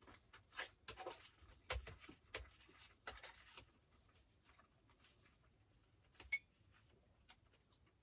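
Quiet handling noises: light rustling and small knocks for the first few seconds, then one sharp clink with a short ring a little after six seconds.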